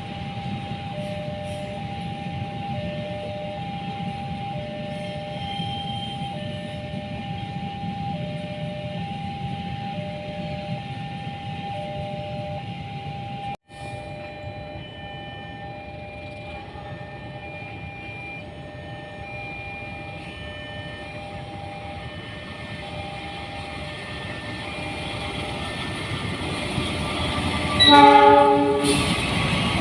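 A railway level-crossing warning bell rings in a steady, repeating two-tone pattern over the low rumble of rail traffic. After a brief cut about halfway through, the bell rings on at a higher pitch. Near the end the rumble grows and a train sounds a loud horn blast.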